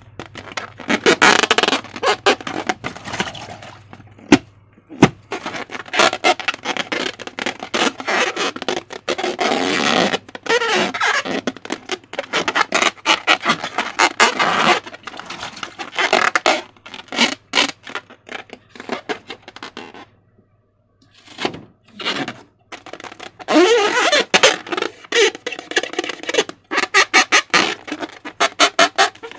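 Slime squelching and crackling, with the rubber of a balloon squeaking as it is squeezed and rubbed, in irregular bursts. It goes almost silent for about a second two-thirds of the way through.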